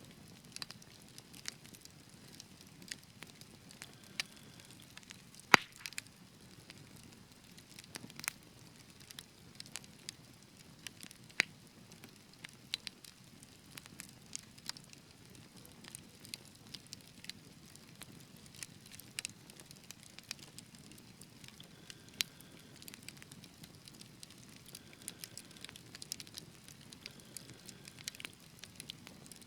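Wood fire burning in a fireplace: a low steady hiss and rumble under irregular sharp crackles and pops, the loudest pop about five and a half seconds in.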